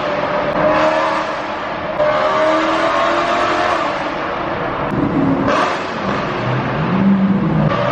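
BMW E92 M3's V8 running through a loud aftermarket exhaust under acceleration. The engine pitch climbs and drops back a few times, with sharp jumps in loudness about two and five and a half seconds in.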